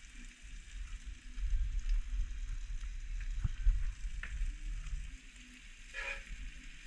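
Squid rings sizzling as they fry in a tray on a portable gas stove. Low knocks and rumble come through the middle, the loudest about three and a half seconds in, and a short sharp sound comes about six seconds in.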